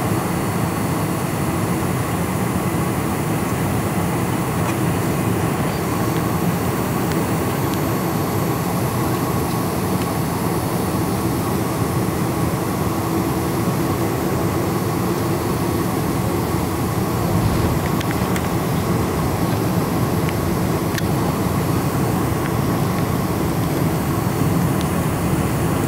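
Boeing 747-400 running with its engines and rushing air making a steady drone, with a few faint steady whining tones and no rise or fall in level.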